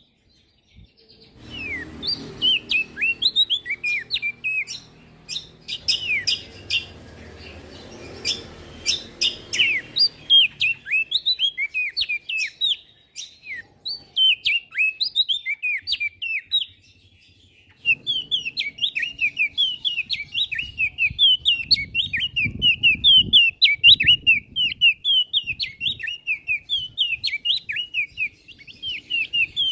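Prenjak daun songbird singing: a fast, continuous chatter of short, high, downward-slurred notes, almost without pause.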